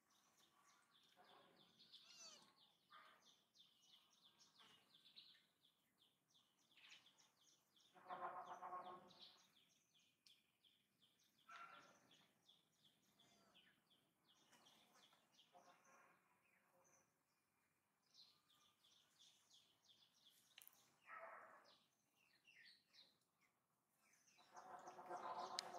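Quiet outdoor ambience of small birds chirping in rapid, repeated series, with two louder, brief pitched sounds: one about eight seconds in and one near the end.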